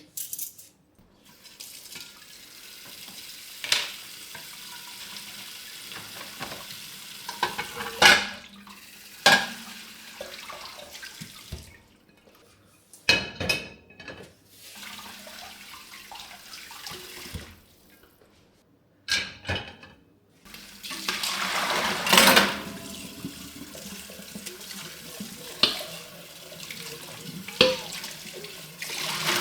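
Kitchen tap running into a sink in several stretches, with dishes and utensils clinking and knocking as they are washed and set down. The water is loudest a little past the middle.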